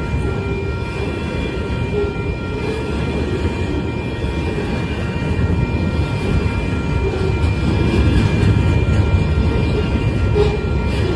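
Union Pacific rail train's flatcars, loaded with long welded rail, rolling past with a steady low rumble of wheels on the track, slightly louder about eight seconds in. A few steady high tones ring over it.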